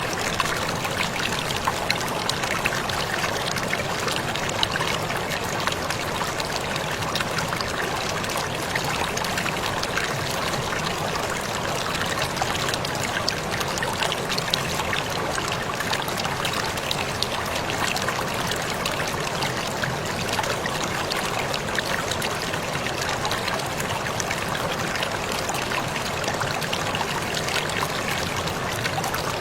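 Waterfall running steadily: a continuous, even rush of falling and splashing water.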